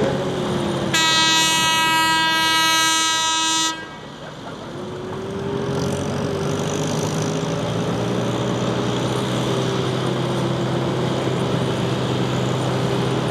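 A loud horn sounds one steady tone for about three seconds, then cuts off sharply. A tractor engine runs underneath and carries on after it, its pitch wavering slightly.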